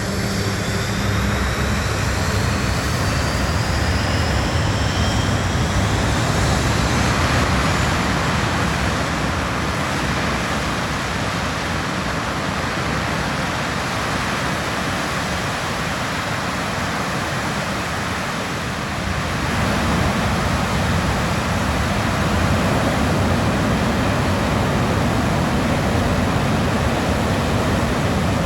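Rolls-Royce Spey 205 turbofan jet engine running on a ground test bed. A rising turbine whine over steady, loud jet noise marks the first several seconds of the run-up. The level dips briefly about two-thirds of the way through, then comes back up.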